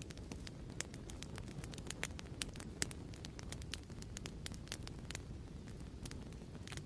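Fireplace fire crackling, with irregular sharp pops and snaps several times a second over a low steady rumble.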